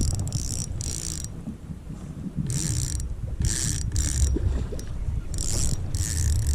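Fishing reel cranked in short bursts, its gears ratcheting, while a hooked fish is played and brought in beside the kayak.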